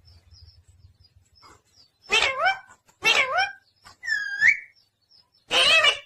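Pet parrot calling: three short, harsh calls about a second apart, with a curling whistle between the second and third.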